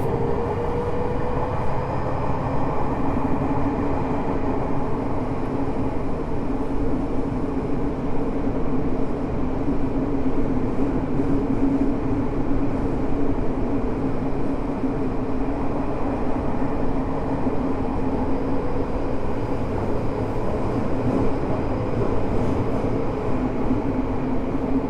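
Tokyo Metro 05 series train with Mitsubishi IGBT-VVVF drive, heard from inside the car while running between stations: a rising motor tone near the start settles into a steady hum over the continuous wheel and rail rumble.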